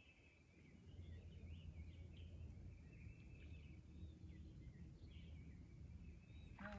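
Faint songbirds chirping, many short varied notes, over a low steady rumble that grows louder about a second in.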